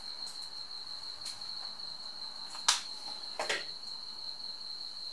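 A cricket's steady high-pitched trill, with one sharp click a little past halfway and two lighter clicks soon after.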